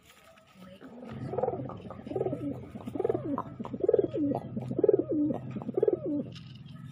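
Domestic pigeon cooing: six coos in a row, a little under a second apart, starting about a second in.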